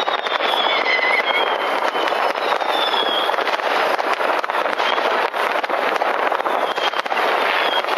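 Many New Year's fireworks and firecrackers going off at once, making a dense, unbroken crackle of pops and bangs. A few rockets whistle through it, their thin high tones gliding briefly.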